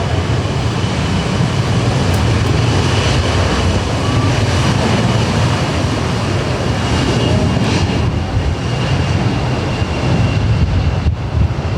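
Jet airliner engines running, a steady loud rumble with a faint high whine held throughout.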